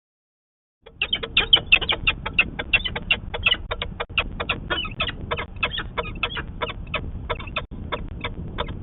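Peregrine falcon giving a rapid run of harsh cacking calls, several a second, the alarm call a peregrine gives at an intruder near its nest. The calls start abruptly about a second in, over a low steady rumble.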